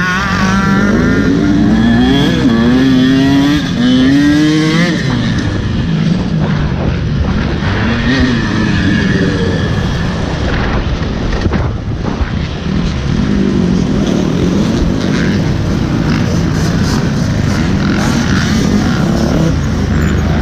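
Motocross dirt bike engine revving hard, its pitch climbing and dropping again and again as the rider works the throttle and shifts. It eases off briefly about halfway through, then climbs and drops again.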